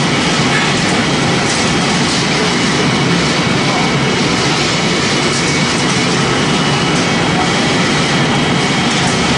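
Straw and sawdust pellet making machine running: a loud, steady mechanical noise that does not let up.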